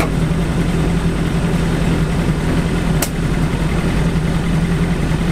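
BAC Mono's four-cylinder engine idling steadily at a standstill, with one sharp click about three seconds in.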